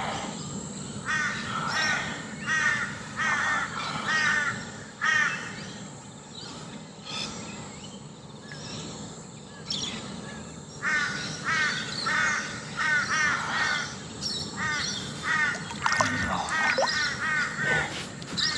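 Crows cawing in runs of short, harsh calls, a few per second, in two bouts with a pause in the middle.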